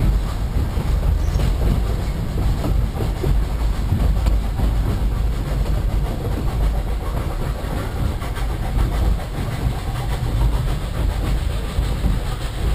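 Narrow-gauge train running along the rails: a steady, heavy low rumble of wheels and cars.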